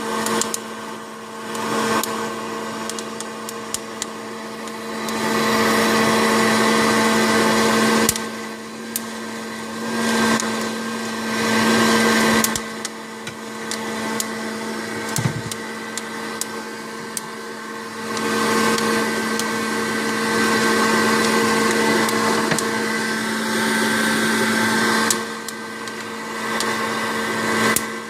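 Hot-air popcorn popper roasting coffee beans: its fan motor whirs with a steady hum under rushing air that grows louder and softer every few seconds, with scattered sharp clicks.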